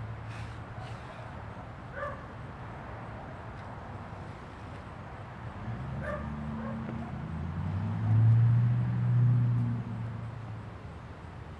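A dog barking a few short times, with a low steady hum that swells to its loudest about eight seconds in and then fades.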